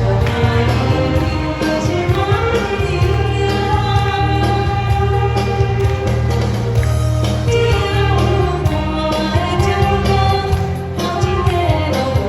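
A voice singing a song over a continuous backing track with a steady low bass line.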